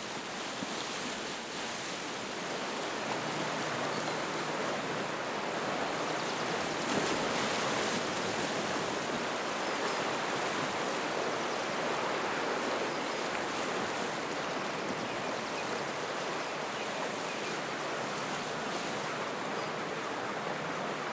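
Sea surf washing on the shore: a continuous hiss of moving water that swells a little a few seconds in and then holds steady.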